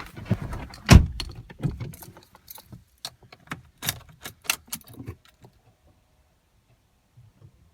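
Car keys jangling among a quick run of clicks and knocks, with one heavy thump about a second in; after about five seconds the sound falls almost quiet, leaving only a faint steady tone.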